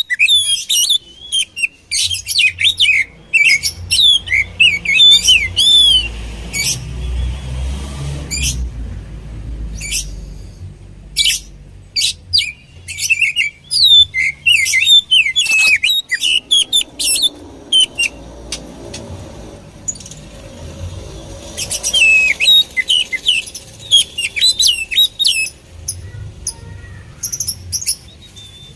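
Oriental magpie-robin (kacer) singing: rapid runs of sweeping whistled notes and sharp chirps, breaking off for several seconds midway and then starting again.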